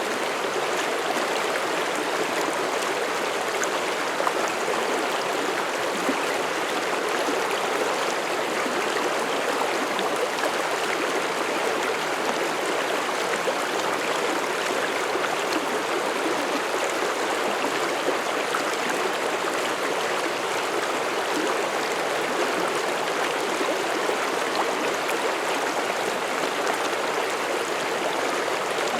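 Mountain stream rushing and babbling over rocks, a steady even flow of water with small splashes.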